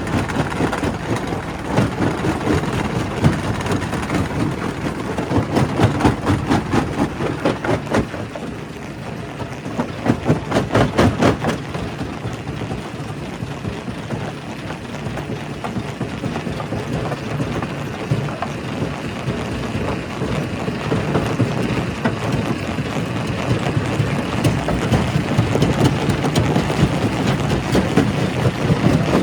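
Quarry primary rock crusher running under load: a continuous heavy rumble broken by irregular sharp cracks and knocks of stone breaking, with a dense run of knocks a little before the middle.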